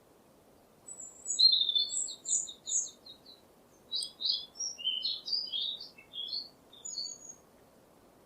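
A songbird singing two phrases of quick, high-pitched chirping notes. The first is a fast run of repeated notes; after a short pause comes a second, more varied string of notes.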